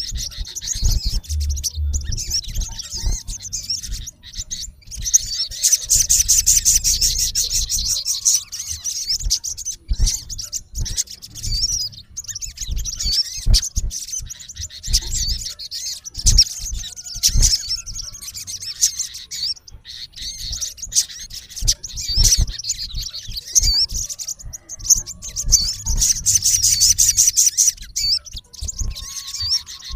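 Male olive-backed sunbird calling: fast, high-pitched chirps and trills in dense runs, loudest about a quarter of the way in and again near the end.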